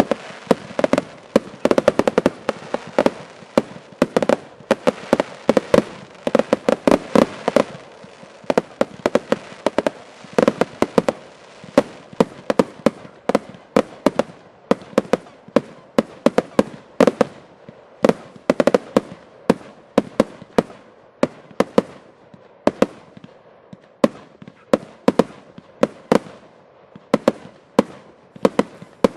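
Fireworks display finale: a dense, rapid volley of bangs over crackling for the first several seconds, then a steady run of separate bangs, a few a second.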